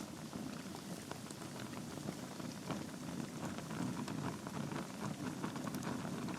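Wood fire burning in a fireplace: a steady low rumble of flames under many small irregular crackles and pops from the logs.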